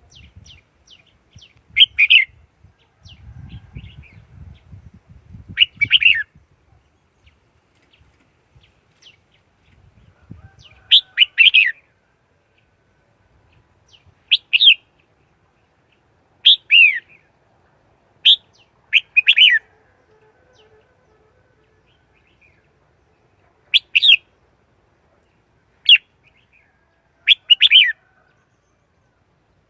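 Red-whiskered bulbul singing short, loud whistled phrases every couple of seconds, with quiet gaps between them.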